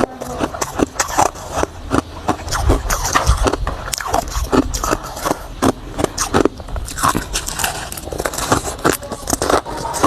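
Close-miked crunching of hard ice being bitten and chewed: a dense, irregular run of sharp cracks and crackles.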